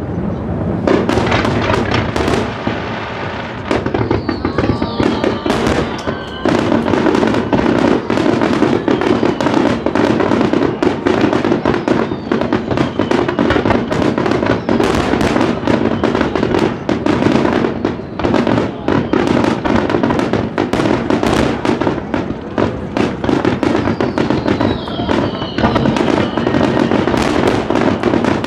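Dense barrage of aerial firework shells bursting in rapid, overlapping succession at close range, with crackling and a few whistling shells now and then.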